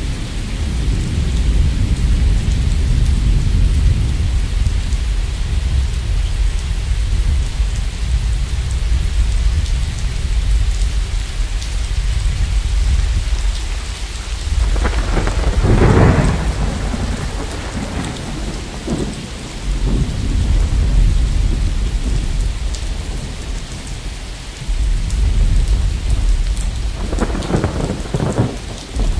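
Thunderstorm: steady rain falling while thunder rolls and rumbles throughout. A louder peal comes about halfway through, and another near the end.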